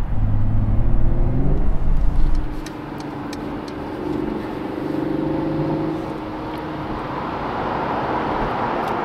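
Mercedes-Benz E450's 3.0-litre inline-six engine heard from inside the cabin, pulling hard with its note rising in pitch over the first second and a half. About two and a half seconds in it drops away to a steady cruise, with engine hum and road noise.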